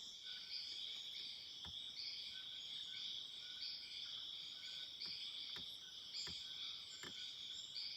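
Forest insect chorus: a steady high-pitched buzzing with a pulse repeating a little faster than once a second, and a thin note that comes and goes. A few faint clicks sound through it.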